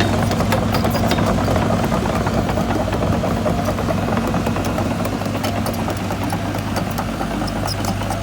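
Caterpillar tracked excavator's diesel engine running steadily, with scattered light clinks, gradually getting a little quieter.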